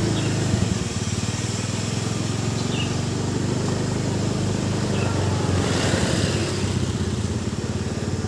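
A small engine running steadily, a low rapid pulsing that rises briefly in the middle.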